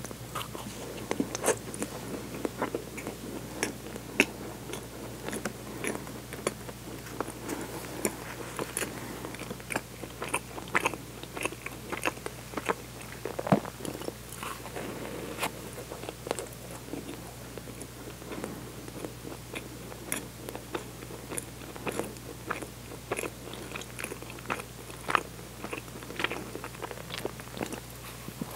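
Close-miked biting and chewing of a soft bread bun filled with strawberry jam, with many small sharp mouth clicks at irregular intervals.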